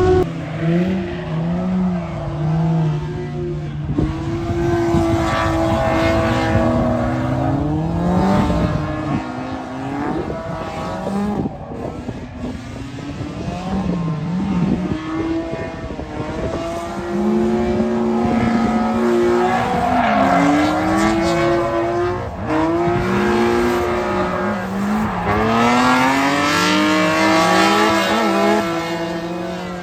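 A drift car's engine driven hard, its pitch climbing and dropping repeatedly as it revs, lifts off and revs again through a drift run, with tyre noise in places.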